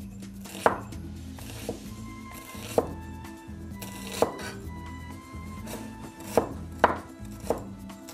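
Chef's knife slicing a red onion on a white plastic cutting board: sharp knocks of the blade hitting the board, about eight in all at an uneven pace.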